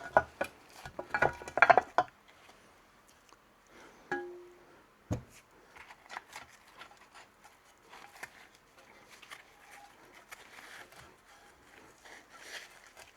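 Metal parts clinking and rattling as a motorcycle starter-motor sprocket and chain are worked into mesh by hand. The clinks are loudest in the first two seconds. About four seconds in there is a single ringing clink, then a thump, then faint small clicks.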